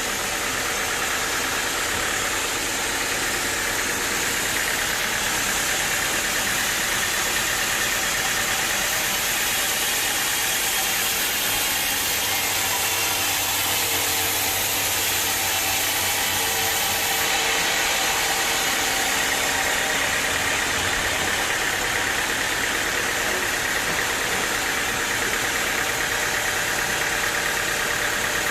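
Sawmill machinery running steadily: a continuous engine-driven hum and whir that hardly changes.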